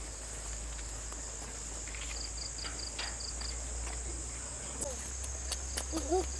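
Insects trilling steadily in a high, even band, with a short run of about seven quick high chirps a couple of seconds in.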